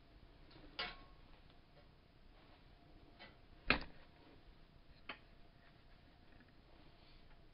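Hammer tapping a small metal punch to drive out a rolled pin: three sharp metallic taps at uneven intervals, the loudest about halfway through, with a weaker tick just before it.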